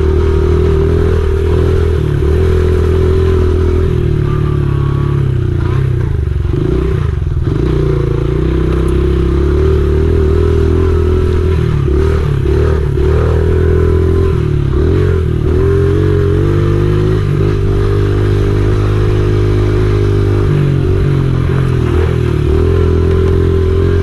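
Honda XR70R pit bike's small single-cylinder four-stroke engine running while being ridden, its note rising and falling with the throttle, with brief dips about seven seconds in and a few more in the middle.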